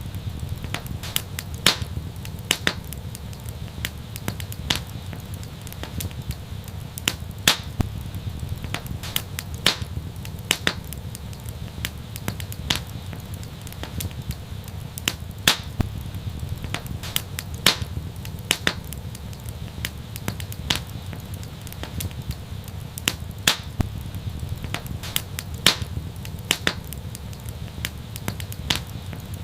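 Wood fire crackling: irregular sharp pops and snaps, a few of them loud, over a steady low rumble of the flames.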